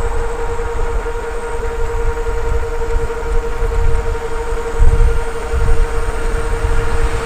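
Wind buffeting the microphone in uneven low gusts while riding an e-bike, over a steady high whine from the e-bike's electric motor.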